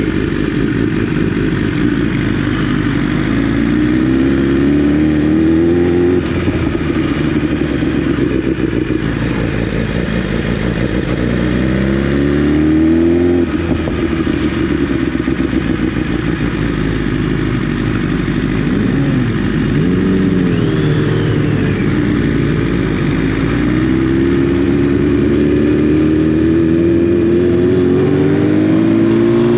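Motorcycle engine under way, its pitch climbing and dropping back several times as it accelerates and shifts through the gears.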